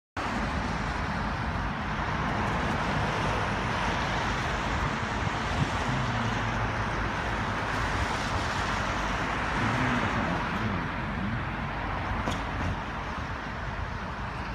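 Steady outdoor traffic noise: an even hiss from passing vehicles with a low engine hum underneath, cutting in and out abruptly at edits.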